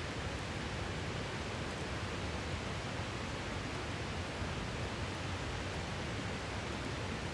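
Steady rushing of a river, with sparse faint crackles from a wood campfire.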